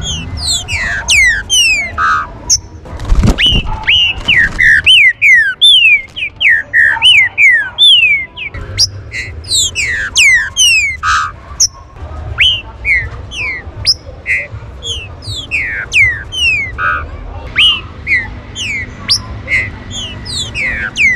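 Green-winged saltator (trinca-ferro) calling: a rapid, busy series of short, sharp whistled notes that each drop steeply in pitch. A low thump comes about three seconds in.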